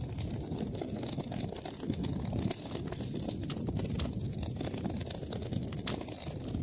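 Wood fire burning in a fireplace: a steady low rumble of flame with many small crackles and pops, and one sharper pop near the end.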